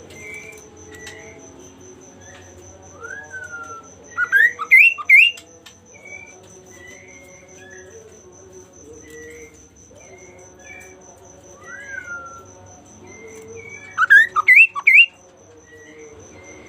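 Caged songbird singing: scattered soft whistled notes and slurs, broken twice, about ten seconds apart, by a loud burst of quick rising whistles. A faint, steady, high pulsing buzz runs underneath.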